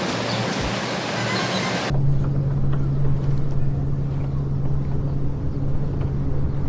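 A steady rushing noise that changes abruptly about two seconds in to a steady low hum with a rumble under it.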